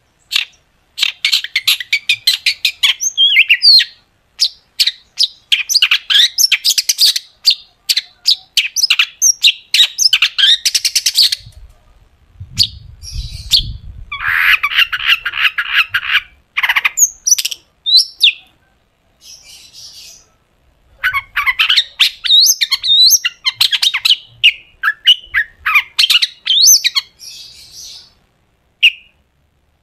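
Long-tailed shrike (cendet) in full song: fast runs of sharp, staccato high notes in dense phrases broken by short pauses, with a harsher rasping call about halfway through.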